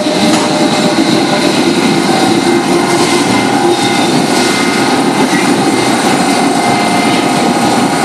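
London Underground S stock train slowing to a stop at the platform: a loud, steady whine from its traction equipment over the noise of wheels on rail.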